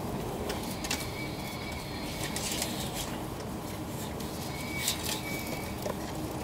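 Cabin noise of an E2-series Shinkansen rolling slowly to a stop at a station platform: a steady low rumble, with two short high squeaks, about a second in and about five seconds in.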